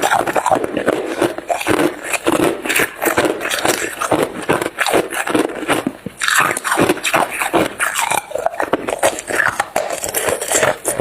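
Hard ice being crunched and chewed close to the microphone: a dense run of sharp cracks and crunches, with a short break about six seconds in.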